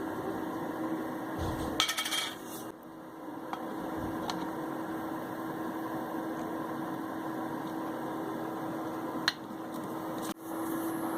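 Steady hum of a running fume extractor fan, with light clicks and a short clatter about two seconds in from small VCR gears being handled and washed, and a sharp click near the end.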